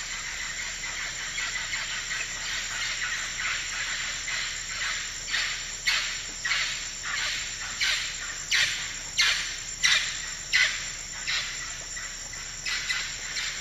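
Tropical forest ambience: a dense, steady chorus of high-pitched animal calls, with a loud call repeated about every 0.7 s from about five seconds in, growing louder and then fading away near the end.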